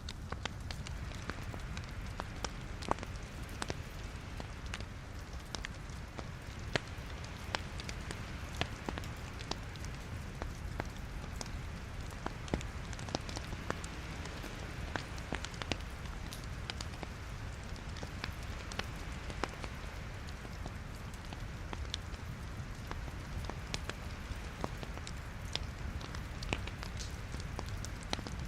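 Wood fire burning in a fireplace: a steady low rumble of flame with many irregular sharp crackles and pops from the logs.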